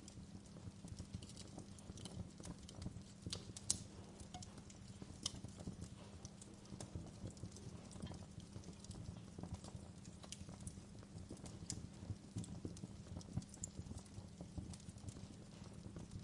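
Wood fire crackling: irregular sharp pops and snaps over a low steady rumble, with a louder pop a little under four seconds in.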